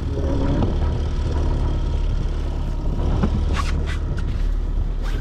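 Steady low rumble of strong wind buffeting the microphone on an open boat, with a few sharp clicks about three and a half seconds in and again near the end.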